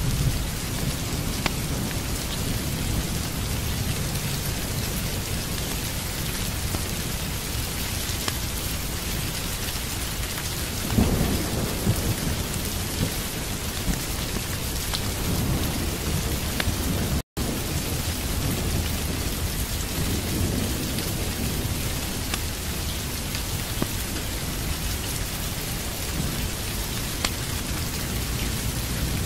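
Steady heavy rain with low rolling thunder underneath, and a louder swell of thunder about eleven seconds in. The sound cuts out completely for an instant a little past the middle.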